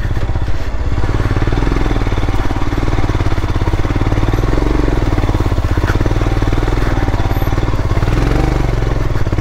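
Royal Enfield Himalayan's single-cylinder engine running as the motorcycle rides a dirt trail, its note rising and falling slightly a few times with the throttle.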